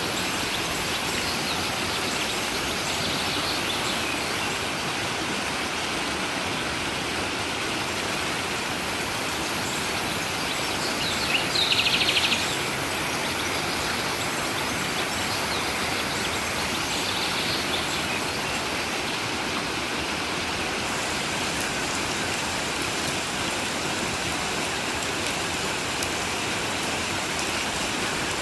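Stream water flowing in a steady rush, with birds chirping now and then; a short burst of rapid chirping stands out about twelve seconds in.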